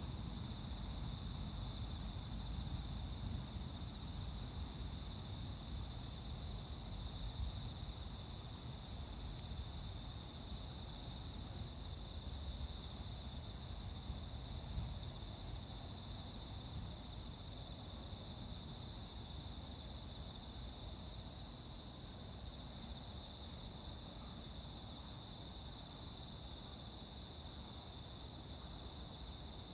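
A steady, unbroken chorus of crickets and other insects: a continuous high chirring tone with a second, higher one above it, over a low rumble.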